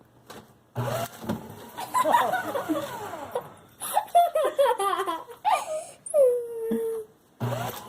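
Laughter in bursts with a pitch that rises and falls, ending on a long falling note about six seconds in.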